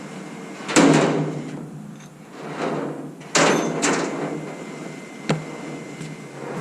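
A few heavy bangs with a short ringing tail: a loud one about a second in, two more around three and a half seconds in, and a light knock near the end.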